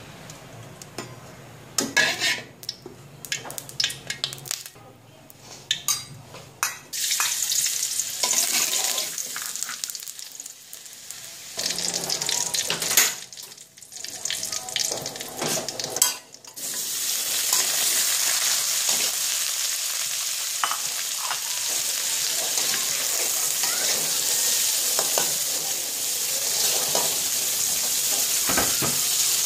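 Food frying in hot oil in a steel wok, with clinks and scrapes of a metal utensil against the wok. Minced garlic sizzles in fits and starts at first; about halfway through the sizzle turns into a steady, louder hiss as pieces of fish fry and are stirred with a metal spatula.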